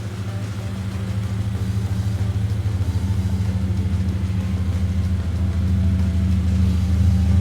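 A car engine running steadily with a low, even hum, growing gradually louder.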